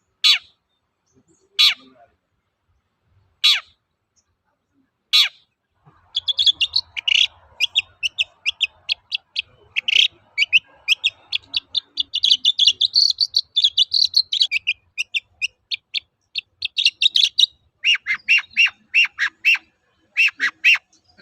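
Long-tailed shrike (cendet) singing: first four separate harsh calls, each falling sharply in pitch, about one and a half seconds apart. Then, about six seconds in, a fast run of chattering, twittering notes that goes on with short breaks.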